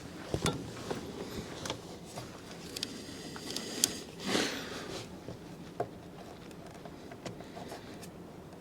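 Scattered small clicks, taps and scrapes of hands fitting parts and lines in an engine bay, with a brief rustle about four seconds in.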